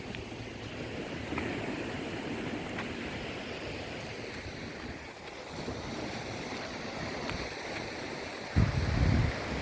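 Sea waves washing on the shore in a steady hiss, with a sudden loud low rumble about a second before the end.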